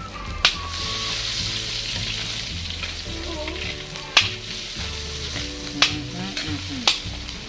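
Onions sizzling in hot oil as they are sautéed and stirred in a pan, with a utensil knocking sharply against the pan four times.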